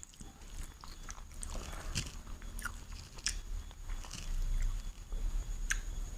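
Close-miked mouth sounds of someone eating chicken biryani: chewing with irregular wet clicks and small crunches.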